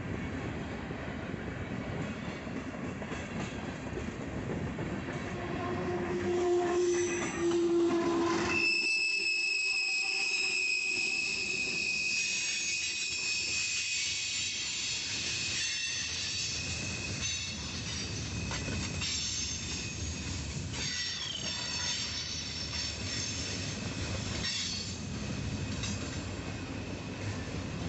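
Freight train cars rolling past with a steady rumble; about nine seconds in, a high, steady wheel squeal starts and carries on through the passing cars.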